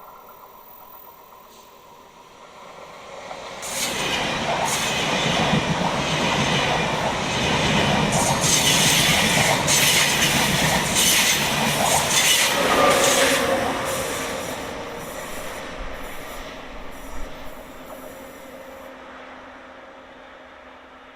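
A train passing close by on the line: its noise rises sharply about four seconds in, stays loud for about ten seconds with a string of knocks from the wheels on the rails, then fades slowly away.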